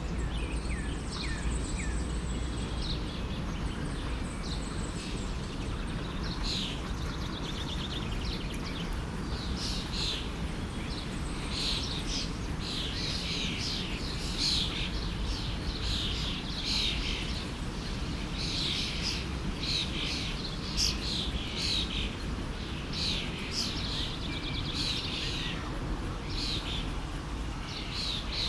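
Many small songbirds chirping in quick, overlapping calls, sparse at first and busier after a few seconds, over the steady rush of a forest stream.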